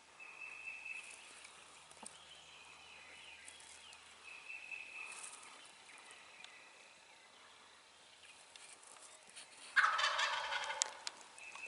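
An eastern wild turkey gobbler gobbles once near the end, a loud rapid rattling call lasting about a second. Fainter, short high bird calls come and go before it.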